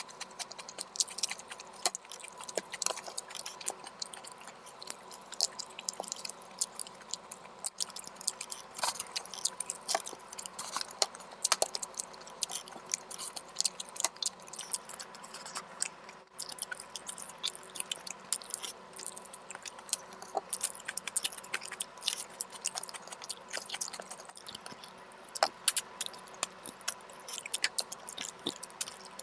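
Close-miked mouth sounds of a person eating: wet chewing and smacking, with many short, sharp clicks coming irregularly.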